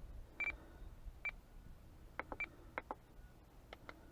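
Short electronic key beeps from a FrSky Taranis radio-control transmitter running OpenTX as its buttons are pressed while setting up a model: single beeps about half a second and a second and a quarter in, then a quicker irregular run of beeps and clicks in the second half.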